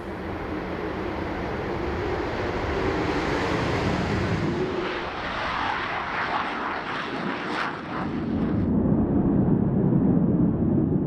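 Military aircraft engine noise, a loud steady rush that builds over the first few seconds. About nine seconds in it changes suddenly, losing its high end and becoming a lower, heavier rumble.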